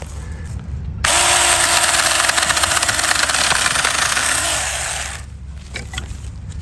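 Saker mini cordless electric chainsaw starting suddenly about a second in and running through a cut for about four seconds, then dying away a little after five seconds.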